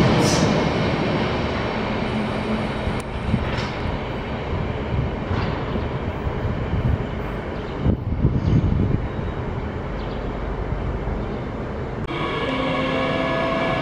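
Berlin S-Bahn electric train pulling away and receding: a steady rumble of wheels on rail that eases slightly, with a few knocks along the way. About twelve seconds in the sound switches abruptly to a steadier hum with a few held tones.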